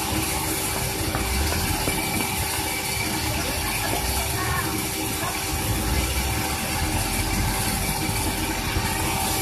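Sawmill machinery running steadily: an even mechanical noise with a constant hum throughout.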